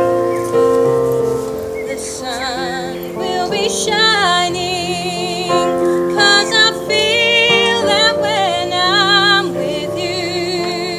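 A woman singing a slow, tender ballad with strong vibrato on held notes, over a sustained instrumental accompaniment.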